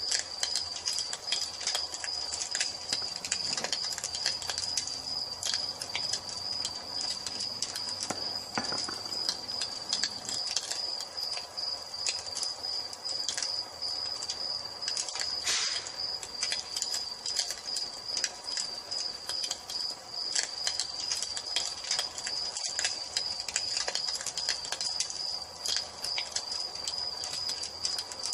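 Wood fire crackling with many small sharp pops, over a continuous high-pitched cricket trill.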